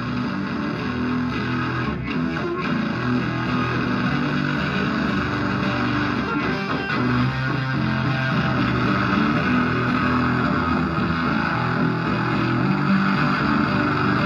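Live rock band playing an instrumental passage with no singing: electric guitar over a bass line that moves between held low notes.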